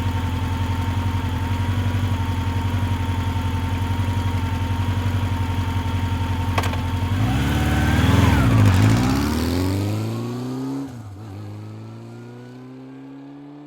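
A motor vehicle engine idling steadily, then revving and pulling away about halfway through, its pitch climbing, dropping once at a gear change and climbing again as it fades into the distance.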